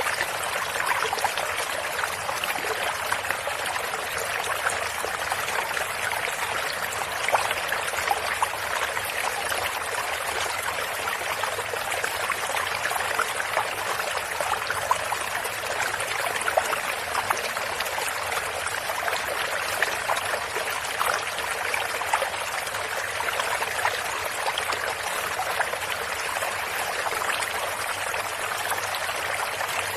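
Shallow stream running steadily, with water splashing and trickling over stones.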